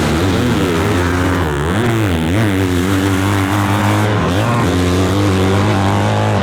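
Motocross dirt bike engines revving hard around the track, their pitch rising and falling again and again as the riders throttle on and off.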